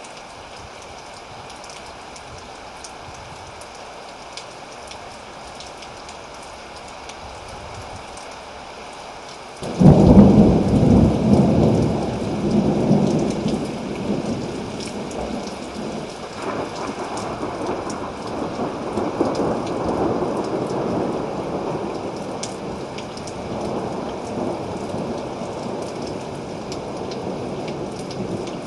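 Steady rain falling, then about a third of the way in a loud thunderclap breaks suddenly into a long rolling rumble that swells and fades several times over the rain.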